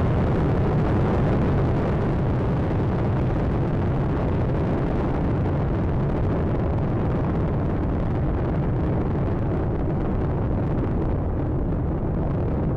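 Space Shuttle Atlantis's two solid rocket boosters and three main engines firing during ascent: a steady, dense rumble, heaviest in the low end, that grows duller in the second half.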